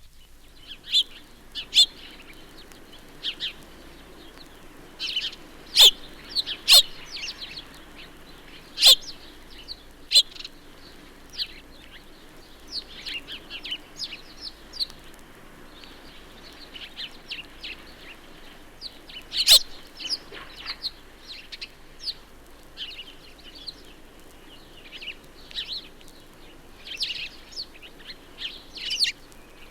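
A group of house sparrows chirping: many short, overlapping chirps, with a few louder, sharper ones standing out.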